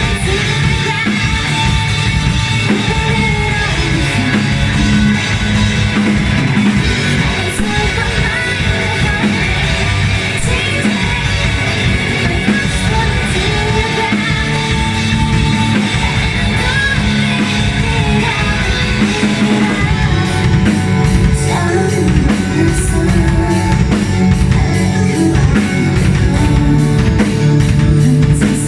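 Live rock band playing: electric guitar, bass and drum kit with a singer. About two-thirds of the way through, a steady cymbal beat comes in, a few strokes a second.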